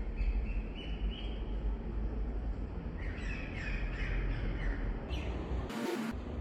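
Birds chirping in short bursts, twice, over a steady low background hum, with a brief noisy burst near the end.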